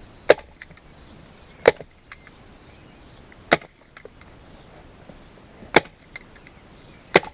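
A staple gun firing five times, one sharp snap every one to two seconds, driving staples through a leather seat cover into a plastic seat base. Fainter clicks follow some of the shots.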